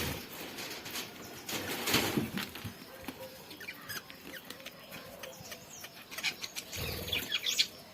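Budgerigars pecking and cracking seed, a patter of small clicks and rustles, with a few short high chirps about four seconds in and a livelier burst of chirping near the end.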